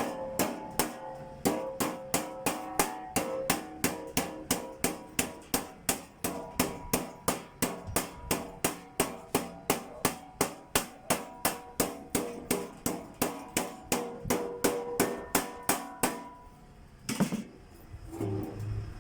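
Hammer striking sheet-metal duct in a steady rhythm of about three blows a second, each blow ringing metallically. The hammering stops near the end, leaving a few scattered knocks.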